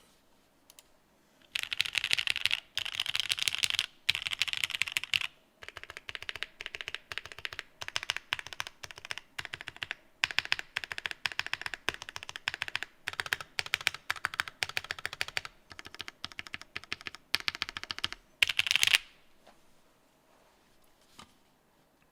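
Mechanical keyboard fitted with Bingsu linear switches and cherry-profile keycaps, typed on quickly in long runs of keystrokes broken by short pauses. The typing starts about a second and a half in and stops about three seconds before the end.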